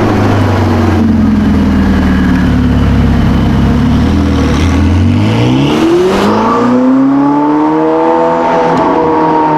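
A car's engine running with a low, steady note, then accelerating about five seconds in, its pitch climbing for about two seconds before levelling off and easing slightly near the end.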